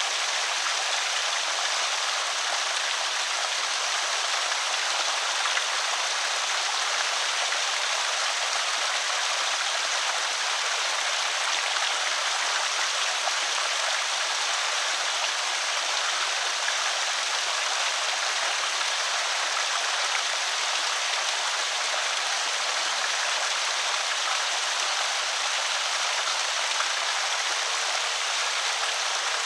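Water running steadily over a small creek spillway, an even splashing rush with no breaks.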